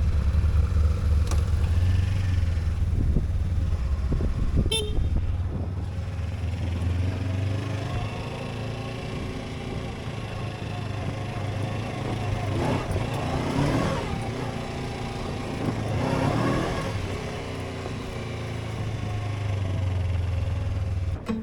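Motorcycle engine running as the bike rides off, with a steady low drone; the pitch climbs and falls twice in the second half as it revs.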